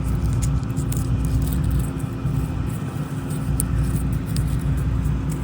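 Steady low rumble and hum of nearby harvest machinery running, with scattered faint high clicks over it.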